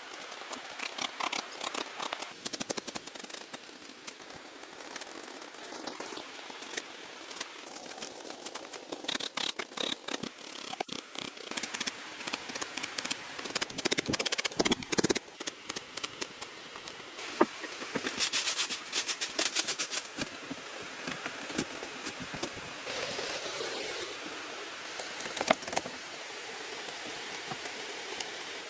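Bamboo being worked by hand: a long run of irregular clicks, snaps and crackles with rustling, denser in a few busy spells.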